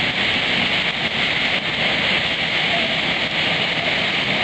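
Thunderstorm winds of up to about 65 mph tearing through a red oak tree: a steady, even rushing noise.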